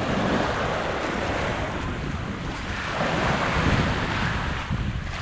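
Small waves washing on a sandy beach, with wind buffeting the microphone in gusts that get stronger about halfway through.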